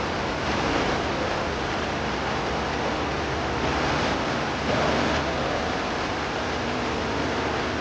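Steady rushing noise of sea waves and wind, swelling slightly about four to five seconds in.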